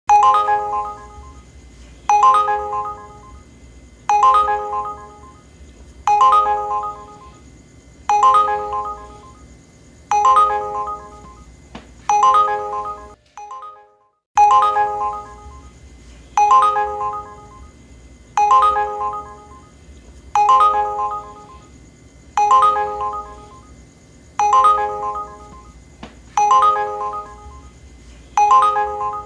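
Uber driver app's ride-request alert, the tone that signals an incoming ride: a short ringing chime repeated about every two seconds. It drops out briefly about thirteen seconds in, then repeats on.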